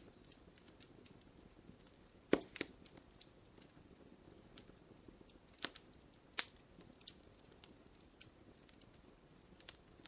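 Wood fire crackling in a fireplace: irregular snaps and pops over a faint steady hiss, with sharper pops about two and a half seconds in and again around six seconds in.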